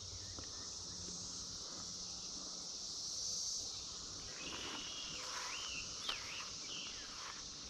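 Periodical cicada chorus droning steadily in a high, shrill band. About halfway through, a bird calls several times in short warbling phrases.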